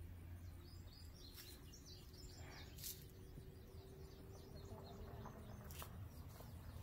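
Faint chirping of small birds, a quick series of short high notes in the first few seconds, over a low steady background hum with a few soft clicks.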